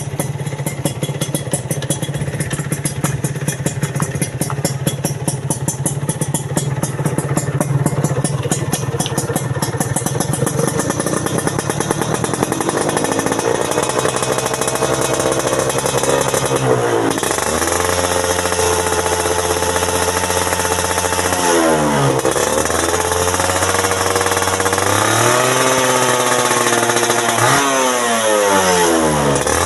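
Motorcycle engine running through its original stock exhaust, idling steadily at first, then revved several times in the second half, the pitch rising and falling with each twist of the throttle.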